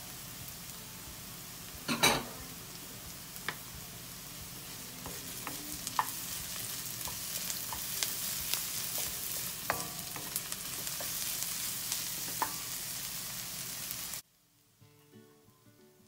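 Diced onions and green chilies sizzling in a stainless steel wok, stirred with a wooden spoon that scrapes and ticks against the pan. There is a loud knock about two seconds in. The sizzle cuts off suddenly near the end, leaving faint music.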